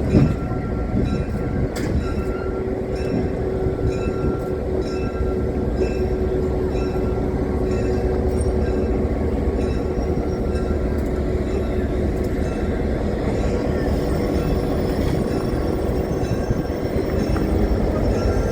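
Heritage railroad train running along the track, heard from on board: a steady low rumble of wheels on rail with a faint steady tone. A short thump comes right at the start.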